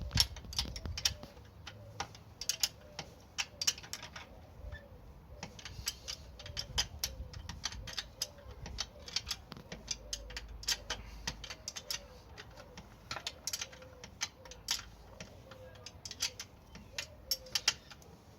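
Irregular sharp metallic clicks, two or three a second, of a hand tool working a bolt on a motorcycle engine mounting, with faint squeaks alongside.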